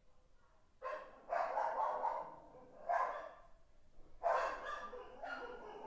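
A dog barking repeatedly in several bursts, some of them quick runs of barks.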